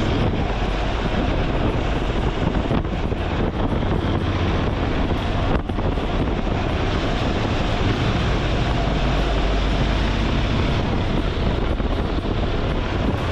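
Motorcycle on the move: steady wind rush on a helmet-mounted microphone over the running engine.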